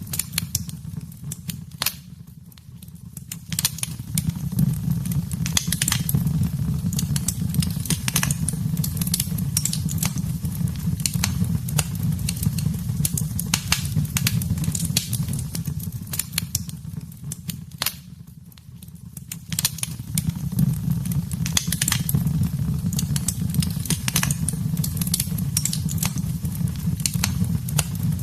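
Wood fire burning in a fireplace: a steady low roar of flames with frequent sharp crackles and pops of burning wood. The fire sound fades down briefly twice, about two seconds in and again near eighteen seconds, then comes back up.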